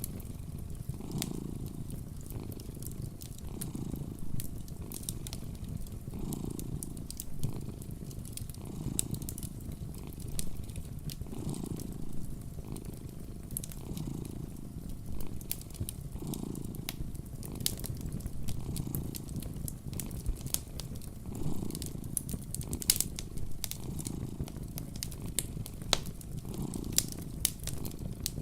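A cat purring steadily, the low purr swelling and fading about every second and a half, with a wood fire crackling and popping in sharp irregular clicks.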